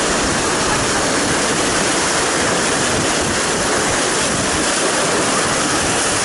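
Steady, loud rush of the Colorado River's moving water.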